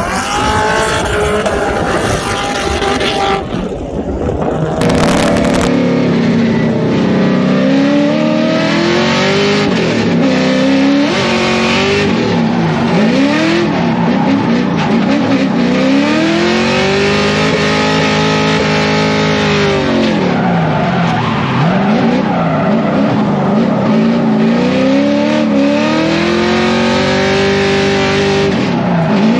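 Drift car engine revving hard, its pitch sweeping up and down again and again and holding high for several seconds at a time, with tyres squealing through the slides.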